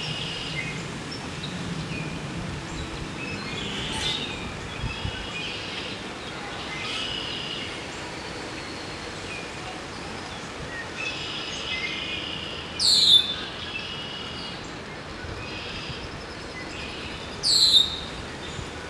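Songbirds singing and chirping over steady outdoor background noise. Twice, a loud high call sweeps quickly downward with a wavering pitch: once about two-thirds of the way through and again near the end.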